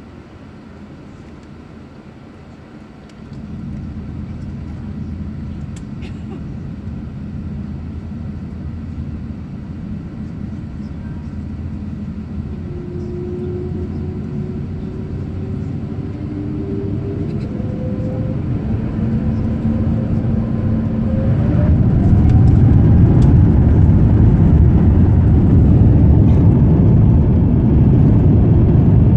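Airbus A350's Rolls-Royce Trent XWB engines spooling up for takeoff, heard inside the cabin. A low rumble steps up about three seconds in and grows steadily, while a whine rises in pitch. About two-thirds of the way through it swells to a loud, sustained rumble of full takeoff thrust and the runway roll.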